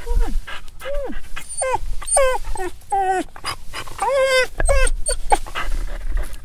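Dog whining: a string of short, high-pitched whines, several sliding down in pitch, with a longer wavering whine about four seconds in.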